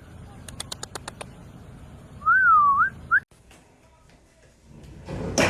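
A row of quick clicks, then a short whistled note that dips and rises again, followed by a brief upward whistle.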